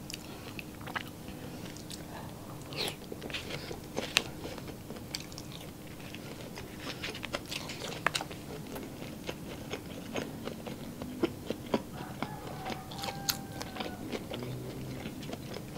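A person chewing tocino, sweet cured pork, with many small mouth clicks scattered irregularly throughout.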